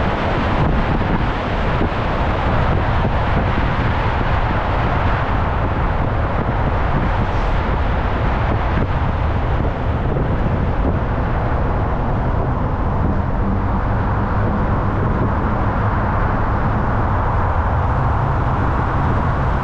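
Steady rushing wind and road noise on the microphone of a camera riding along on an e-bike, with a low hum joining in about two-thirds of the way through.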